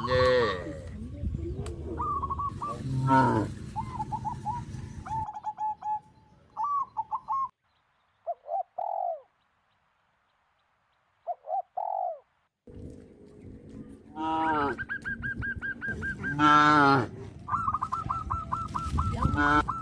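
Farm animal calls: low cattle moos and short repeated bird calls. A stretch of dead silence in the middle is broken only by two short falling calls. Loud calls come back about two-thirds of the way in, ending in a fast run of short honk-like notes.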